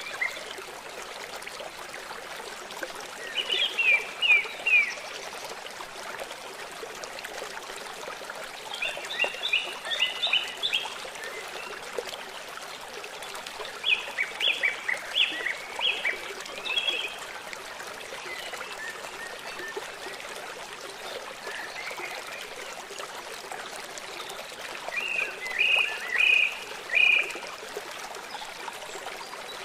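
A songbird sings four short phrases of quick, high notes, over the steady rush of flowing water from a forest stream.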